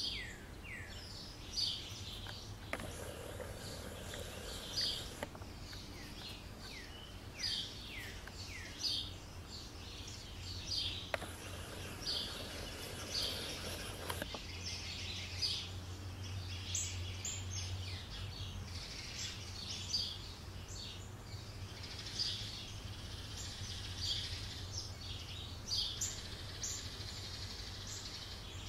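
Small songbirds calling: a quick run of downward-slurred whistled notes at the start, then scattered chirps. A steady low hum runs underneath, and a rushing noise comes through twice.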